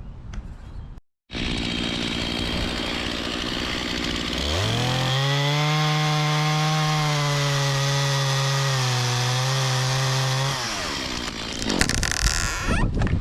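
Two-stroke chainsaw idling, then throttled up at about four and a half seconds and held at high revs for about six seconds before dropping back to idle. A louder scratchy noise follows near the end.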